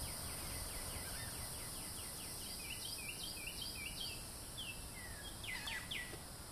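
Birds chirping in a rapid run of short falling notes, about five a second, then a few louder falling notes near the end, over a steady background hiss.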